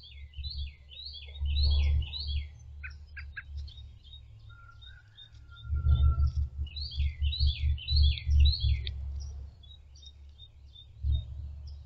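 A songbird sings a series of whistled notes, each sliding downward, repeated about three times a second in two bouts, with scattered short chirps between them. Low rumbling buffets on the microphone are the loudest sound, around two seconds in and again from about six to nine seconds.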